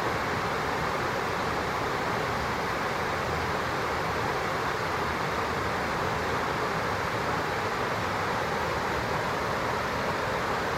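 Steady, even rushing of flowing stream water, unchanging throughout.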